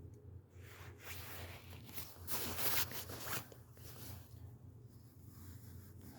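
Rustling and scuffing noises, loudest about two and a half seconds in, over a steady low hum.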